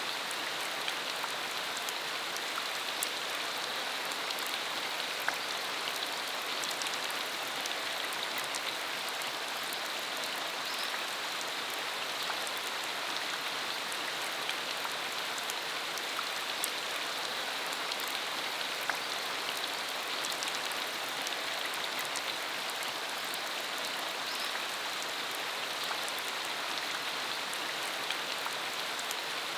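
Steady rain falling with a continuous hiss, with many distinct drops ticking sharply on nearby surfaces.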